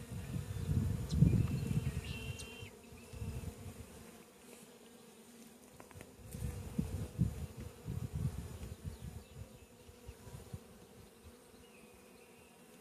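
A honeybee colony buzzing around an open hive, a steady hum. Irregular low rumbling on the microphone comes and goes, loudest about a second in and again from about six to nine seconds.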